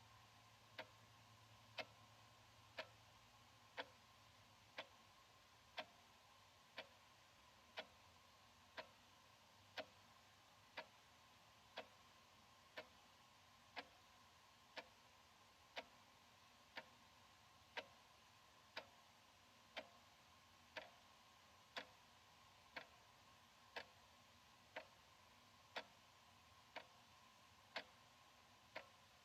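Analog wall clock ticking steadily, one faint tick every second.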